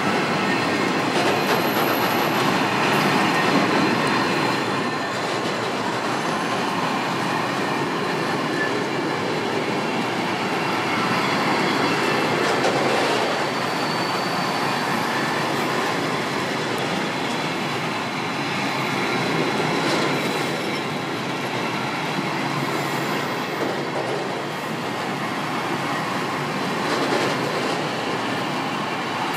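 Freight train of covered bogie wagons rolling steadily past: a continuous rumble and rattle of steel wheels on the rails, with brief thin wheel squeals now and then.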